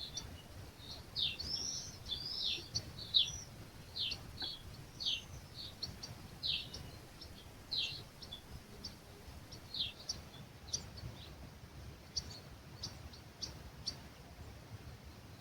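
Songbirds chirping at dawn: a rapid run of short, high, downward-sweeping notes for the first ten seconds or so, thinning to sparse short chips over a faint low rumble of breeze.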